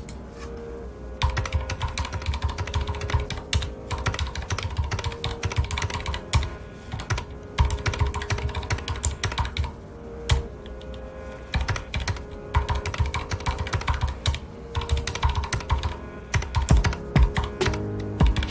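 Red-switch (linear) mechanical keyboard being typed on in quick runs of keystrokes with brief pauses, starting about a second in. Soft background music with held notes plays underneath.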